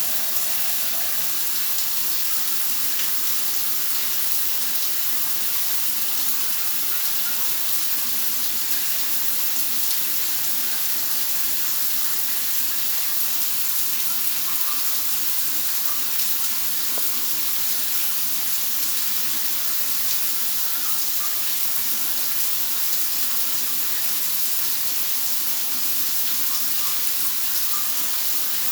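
Steady rain falling, an even hiss of drops that does not change.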